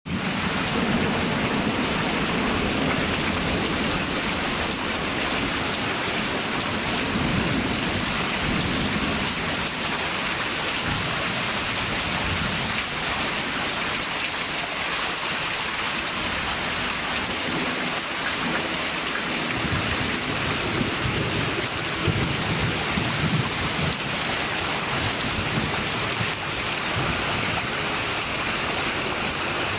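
Heavy rain pouring down steadily in a thunderstorm, with low rumbles of thunder coming and going.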